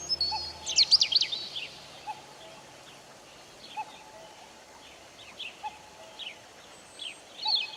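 Small wild birds chirping: short, quickly sweeping high calls, bunched in a flurry about a second in and again near the end, with a faint lower note repeating every couple of seconds over quiet outdoor background.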